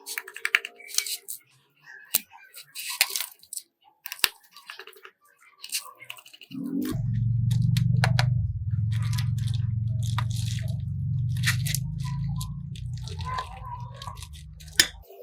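Scattered clicks and short scrapes of small hard objects being handled. About seven seconds in, a steady low hum of a motor or machine starts and runs until just before the end.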